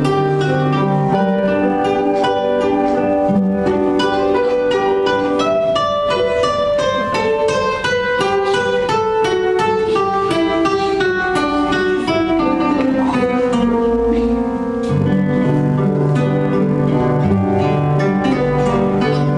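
Acoustic guitar music: a continuous run of plucked notes over low bass notes, with a falling run of pitch a little past the middle.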